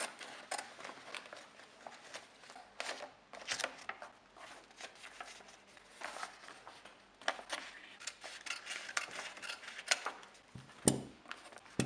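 Scissors cutting paper: a run of short, irregular snips with paper handling, and a louder knock near the end.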